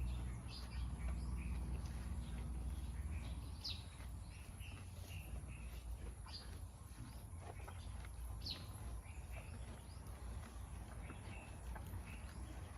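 Farmyard ambience: scattered short bird chirps over a steady high-pitched drone, with a low rumble that fades away over the first few seconds.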